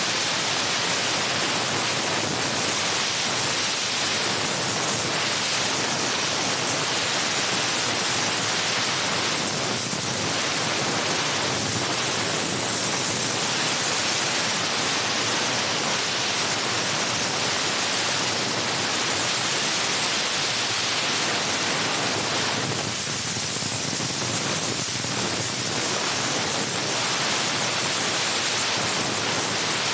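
Steam gun of a 20-bar LPG-fired steam car wash machine spraying dry steam, a loud, steady hiss.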